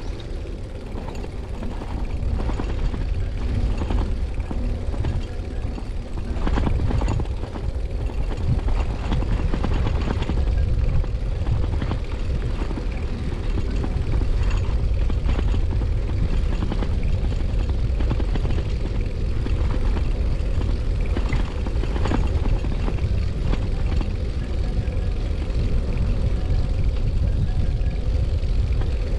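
Wind rush and steady low rumble from riding a Brompton folding bicycle, with scattered small clicks and rattles from the bike.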